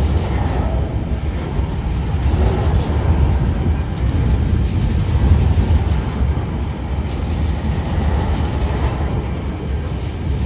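Empty coal hopper wagons of a freight train rolling past, a steady low rumble of wheels running on the rails.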